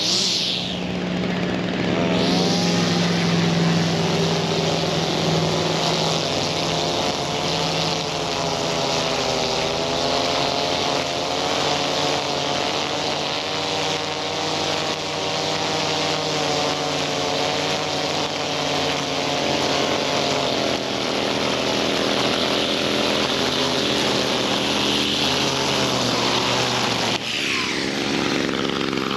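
Stihl FS 55 RC two-stroke string trimmer running hard at high revs, its pitch wavering slightly as it is worked; near the end the revs dip and climb back up. It runs well after a tune-up.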